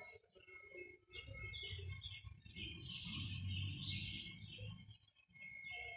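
Small birds chirping in quick clusters over a low, steady background rumble.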